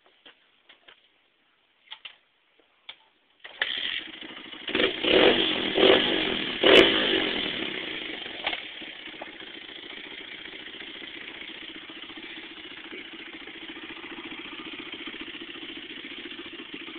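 A 2008 Honda CRF100F dirt bike's small four-stroke single-cylinder engine, fitted with an FMF Powercore 4 exhaust, being started: a few faint clicks, then the engine catches about three and a half seconds in. It is revved several times, then settles into a steady idle.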